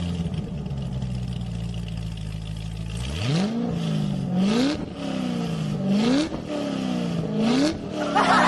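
Car engine idling steadily, then from about three seconds in revving up repeatedly: about four rising pulls in pitch, each dropping back before climbing again.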